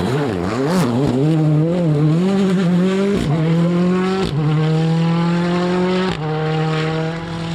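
Rally car engine at full throttle. The revs rise and fall for the first few seconds, then it accelerates hard, climbing in pitch through three upshifts, each marked by a short crack and a drop in pitch.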